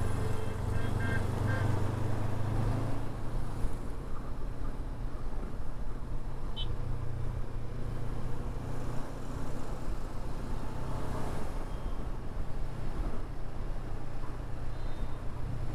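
Honda NX500's 471 cc parallel-twin engine running steadily while the bike is ridden, with road and traffic noise around it. The engine note is a little stronger for the first three seconds or so.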